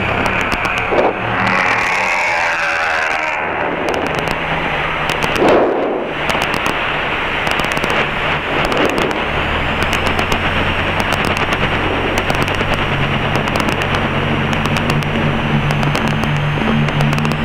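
Cessna 172's engine and propeller running steadily while taxiing, heard as a dense cockpit drone through the headset intercom. Frequent sharp clicks run through it, and the low engine note strengthens about nine seconds in.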